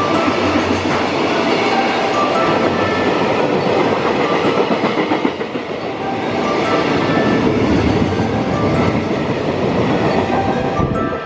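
Freight train running past, its wagons' wheels clattering over the rail joints in a continuous rumble.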